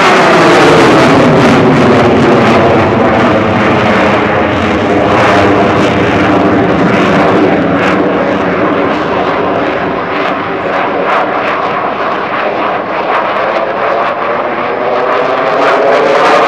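KAI T-50 Golden Eagle's single General Electric F404 turbofan, loud and steady as the jet flies its display. A phasing sweep falls in pitch near the start and rises again near the end as the aircraft passes and manoeuvres.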